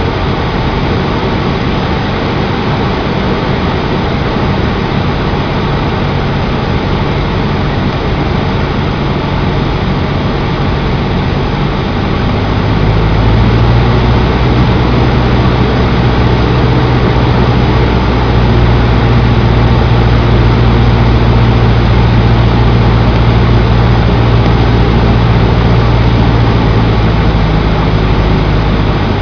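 Cessna 152's four-cylinder Lycoming engine and propeller running steadily. About twelve seconds in, the engine note grows louder and fuller, holding there until it eases back near the end.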